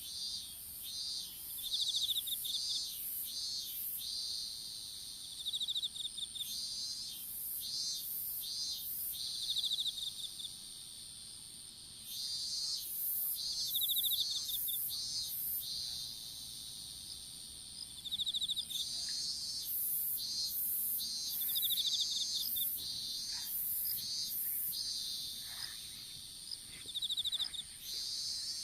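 Insects calling in a field: a steady high-pitched drone under rapid, repeating chirps and short trills, in bouts that start and stop throughout.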